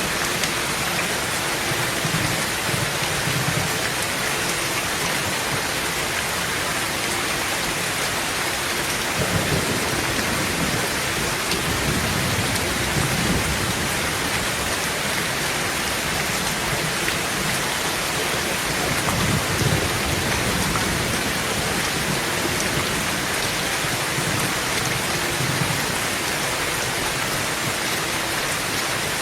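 Heavy rain pouring steadily on a tin roof, with low thunder rumbling several times; the strongest roll comes about twenty seconds in.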